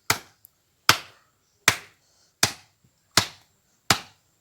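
Six sharp, evenly spaced blows, about one every three quarters of a second, as a wooden stake is hammered into the ground.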